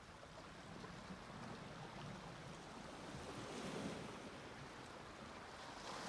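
Sea waves washing onto a beach, faint and steady, swelling with a breaking wave a little past halfway and another building right at the end.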